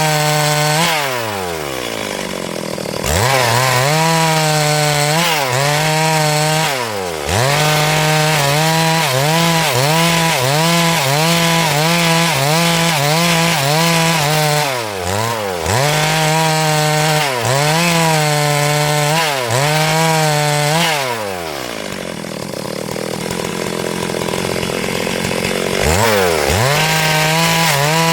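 Stihl MS382 two-stroke chainsaw ripping lengthwise through a hardwood log at full throttle, its pitch wavering rhythmically under the load of the cut. It drops to a lower speed several times, longest for about five seconds near the end, and revs back up each time.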